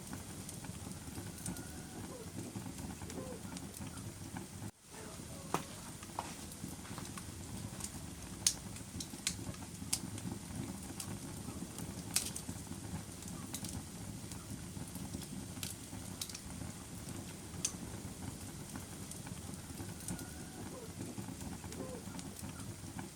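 Wood fire burning in a fireplace: a steady low rush of flames with sharp crackles and pops scattered throughout. The sound drops out briefly about five seconds in.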